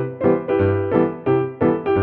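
Background music: piano or keyboard playing a bouncy line of repeated chords over a bass, with a steady beat of about three to four notes a second.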